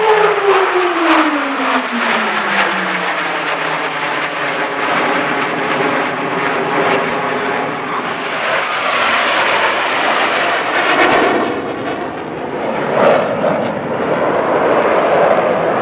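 Military jet making a low pass: its engine pitch drops steeply in the first few seconds as it goes by, then a continuous jet roar that swells again midway.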